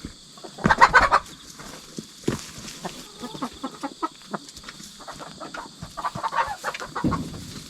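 Hens clucking, with two louder bursts of calls about a second in and about six seconds in, and short taps in between.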